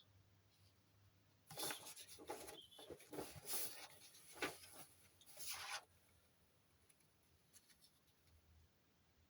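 Rustling and scraping handling noise with a few sharp clicks, lasting about four seconds from about a second and a half in.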